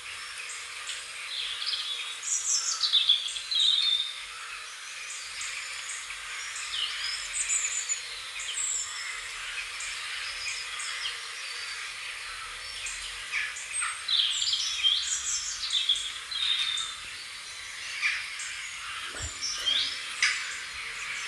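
Several wild birds singing and calling, with quick chirps and sweeping whistles coming in clusters over a steady, even hiss of outdoor background noise.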